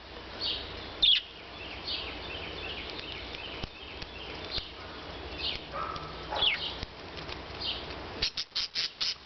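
Parakeets chirping, with scattered short high chirps and a few falling calls, and a quick run of about five sharp sounds near the end.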